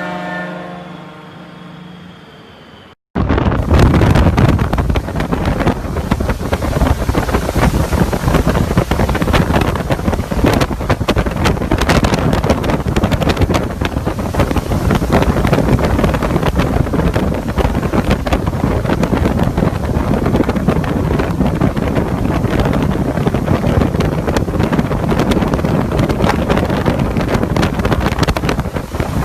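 A held tone fades away over the first few seconds, then, after a sudden cut, hurricane-force wind pounds the microphone, loud and unbroken with constant crackling buffets.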